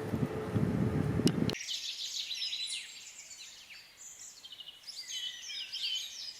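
Birds singing: a mix of quick chirps and trills. It starts abruptly about a second and a half in, cutting off a loud rumbling noise with a steady hum.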